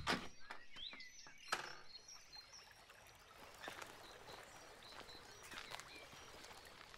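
A drum-kit music track ends right at the start, leaving faint outdoor ambience with short bird chirps and a few sharp clicks in the first two seconds.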